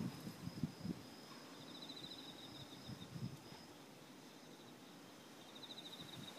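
Faint night insects: crickets chirping in pulsed trills about a second and a half long, two bouts a few seconds apart, over a steady high insect trill. A few soft low thumps in the first second.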